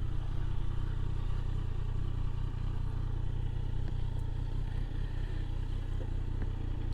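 Motorcycle engine idling steadily after pulling in to park.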